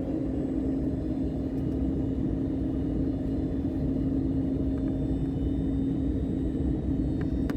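Airbus airliner cabin noise on final approach: a steady low rumble of engines and airflow with a steady hum running through it, growing slightly louder.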